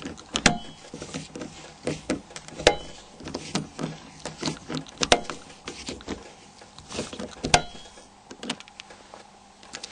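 Small clicks and taps of a torque screwdriver driving screws into a mobile phone's plastic flip cover. Four sharper clicks with a brief ring come about every two and a half seconds.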